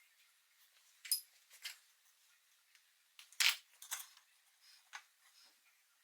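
A handful of sharp clicks and clinks of small hard objects being handled, spaced irregularly, the loudest about a second in and again midway.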